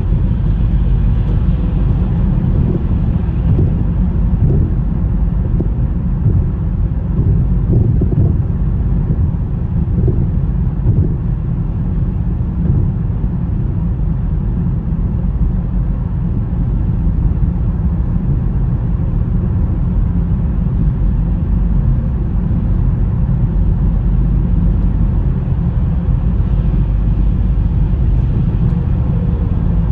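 Car driving through a snowstorm: a steady low rumble of road and engine noise with no changes.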